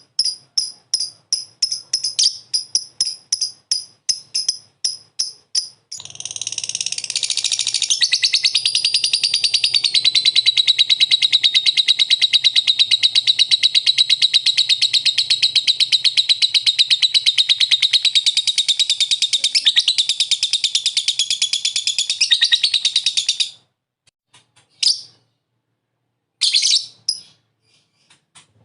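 Lovebird ngekek: a quick run of separate high chirps, then about six seconds in a long unbroken rapid chattering trill that lasts some seventeen seconds and stops abruptly, followed by a few short calls.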